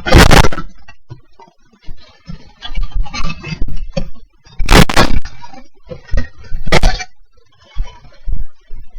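Sharp cracks and knocks, loud and sudden: one at the start, softer scraping scuffs in between, then two more loud cracks about two seconds apart.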